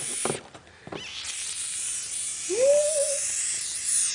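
Small lizard hissing: a short hiss at the start, then after a pause of about a second a long hiss that stops sharply near the end. A short rising voice-like sound comes in the middle.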